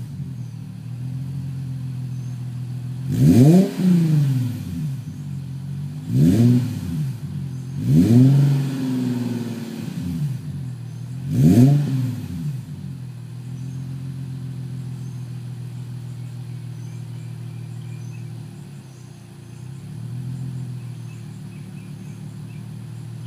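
Infiniti FX35's 3.5-litre V6 through a Tanabe replica axle-back exhaust, idling and revved four times in the first half. Each rev climbs and drops back quickly, the third held a little longer. The engine then settles into a steady idle.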